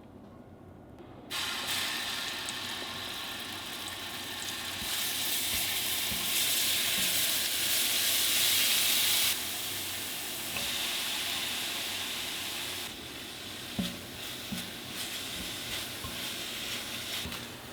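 Food sizzling in a hot frying pan, starting suddenly about a second in as it meets the hot oil, louder for a while and then easing off. A few sharp clicks near the end.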